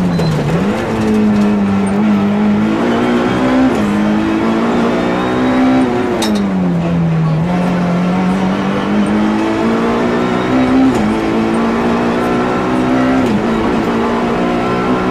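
Nissan Almera GTi's SR20DE four-cylinder engine at full throttle, heard from inside the cabin, revving up through the gears with a sharp drop in revs at each upshift. About six seconds in the revs fall away for a second or so as the car slows, then climb again through further gears.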